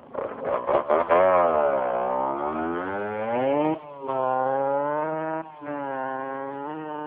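Pit bike's Minarelli AM6 50cc two-stroke single-cylinder engine sputtering with a few sharp pops for about a second, then running and being revved up and down, with brief drops in revs about four and five and a half seconds in.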